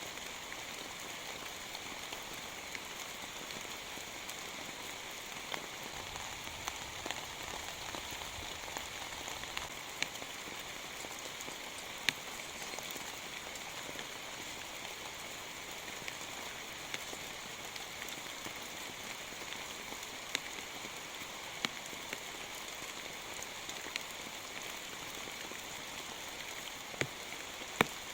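Steady rain falling, with scattered louder drops striking close by every few seconds.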